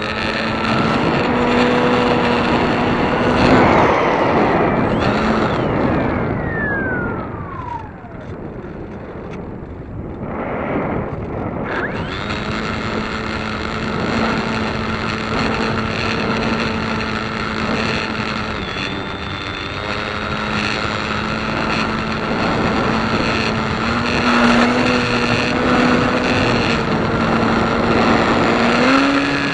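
Small piston engine running steadily, mixed with wind buffeting the microphone. About five seconds in, a whine falls sharply in pitch.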